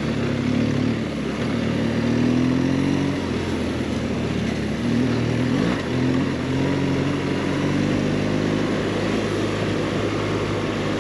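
BMW R 1200 GS boxer twin engine pulling the motorcycle along a dirt trail at low gear, its note rising and falling several times with the throttle over a steady hiss of wind and tyre noise.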